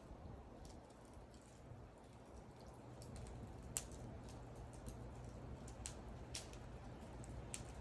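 Wood fire burning with scattered sharp pops and crackles over a low steady rumble of the flames; the loudest pop comes a little before the middle.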